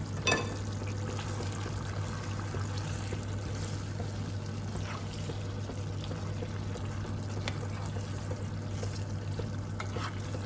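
Steady trickling, watery hiss over a low hum, with a sharp click about a third of a second in and a few faint ticks after.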